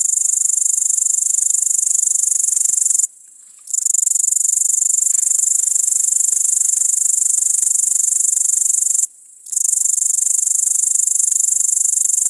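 Great green bush-cricket (Tettigonia viridissima) stridulating close up: a loud, high-pitched, rapidly pulsing buzz that runs on with two short pauses, about three seconds and about nine seconds in.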